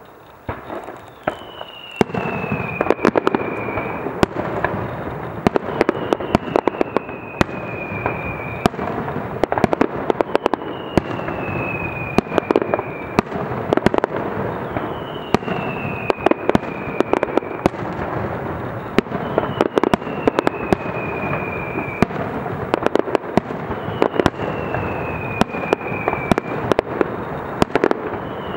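Aerial fireworks display: a dense, continuous run of bangs and pops from bursting shells, starting about two seconds in. A falling whistle recurs every four seconds or so.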